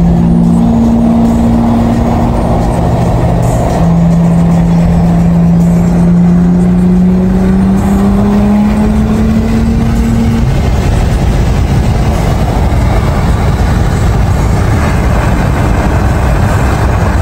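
Infiniti 3.0-litre twin-turbo V6 heard from inside the cabin during a highway pull: the engine note climbs steadily for about six seconds, then fades under loud, steady wind and tyre roar.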